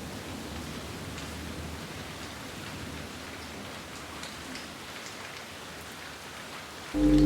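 Steady rain with scattered drops. Just before the end, music of held, steady tones starts abruptly and is much louder than the rain.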